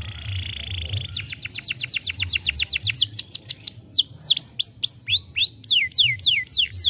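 Domestic canary singing: a short buzzy trill, then a fast run of repeated downward-sweeping whistled notes, several a second, shifting between different note types.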